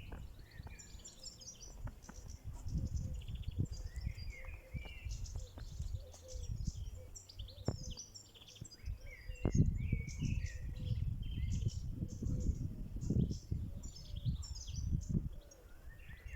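Small songbirds chirping and singing continuously in quick trills, over a low gusty rumble of wind on the microphone.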